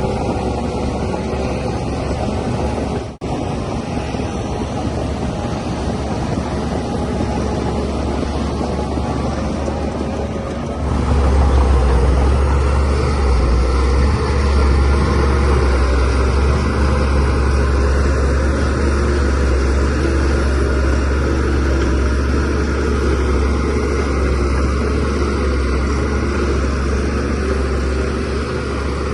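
Diesel engine of a DH17C3PRO bulldozer running steadily. The sound drops out for an instant about three seconds in. About eleven seconds in the engine grows louder and deeper and stays there, as the dozer works under load pushing soil.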